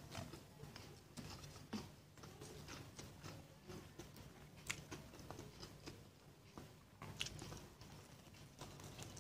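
Close-up eating sounds: chewing and biting, with scattered short crisp clicks and smacks, the sharpest about halfway through and again near three-quarters of the way in.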